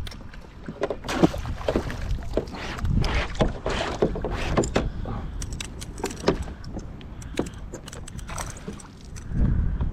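Scattered clicks, knocks and rattles of handling on a plastic fishing kayak, over a low wind rumble on the microphone.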